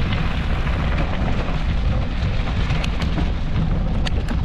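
Wind rumbling on the microphone of a moving mountain bike, with a few sharp rattles near the end.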